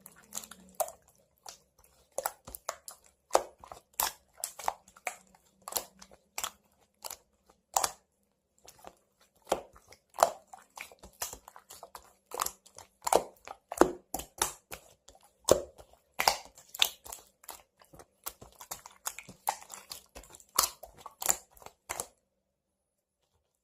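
Close-up crisp crunching and clicking at an irregular pace, stopping abruptly near the end.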